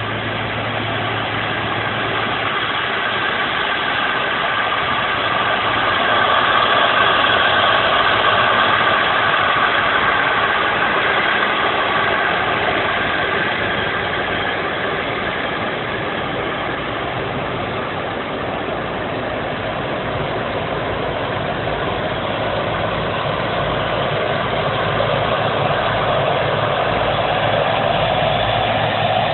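Boeing 777-300 airliner's twin jet engines running, a steady jet noise that slowly swells and eases.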